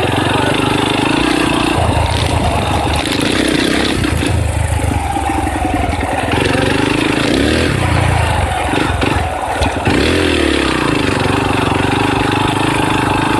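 Dirt bike engine running under riding, its revs rising and falling again and again as the throttle opens and closes. There is a short drop in revs about nine and a half seconds in.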